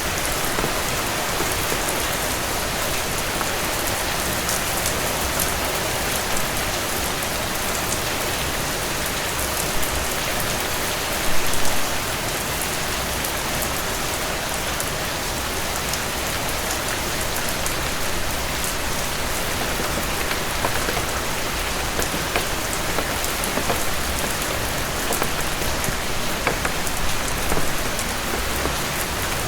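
Heavy rain falling steadily on a cabin porch, a dense even hiss, with a fireplace crackling in scattered sharp clicks and a brief louder burst about eleven seconds in.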